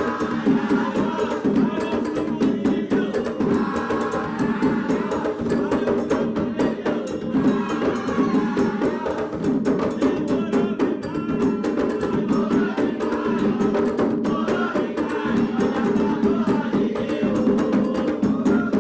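Candomblé toque for Oxum played on atabaque hand drums, a dense, continuous rhythm with other percussion, and voices singing over it.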